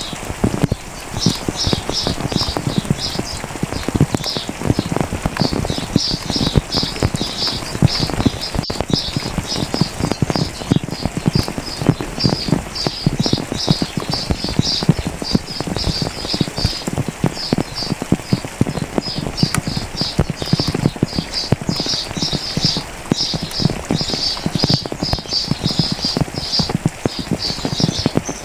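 Rain falling, its drops tapping irregularly and densely, with small birds giving quick, high chirping notes over it almost throughout.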